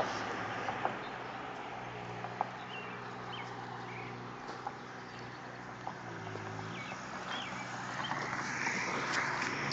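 Street ambience: a passing car's rush dies away at the start and another vehicle approaches near the end, over a steady low engine hum. A few short bird chirps and small scattered clicks.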